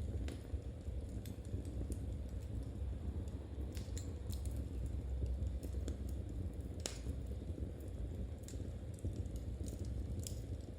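Wood fire crackling in a fireplace: irregular sharp pops, one louder about seven seconds in, over a low steady rumble.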